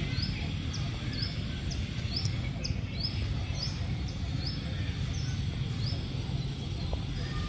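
A bird repeating a short high chirp about once a second, over a steady low outdoor background noise.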